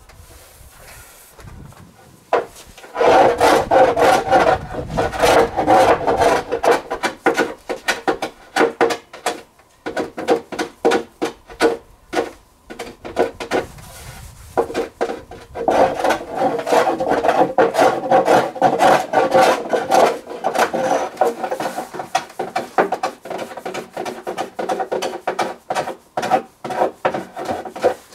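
A hand tool working wood with rapid back-and-forth rasping strokes, in two long spells with a patchy pause between them.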